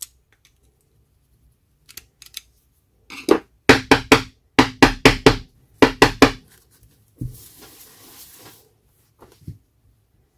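Hard plastic and metal parts of a cordless angle grinder being handled during a switch repair: about ten sharp clicks and knocks in quick succession, then a short hiss and a couple of small clicks.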